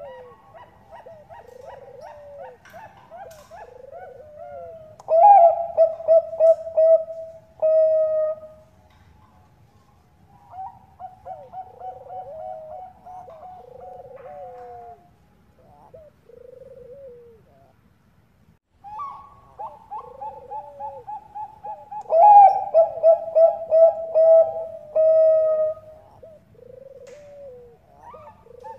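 Bangkok-type zebra doves (perkutut) cooing. About five seconds in and again about twenty-two seconds in comes a loud run of rapid, clipped coos, with softer cooing phrases going on between and beneath them.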